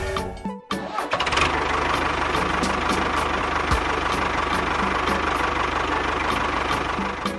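Engine running steadily with a regular light ticking, cutting in about half a second in.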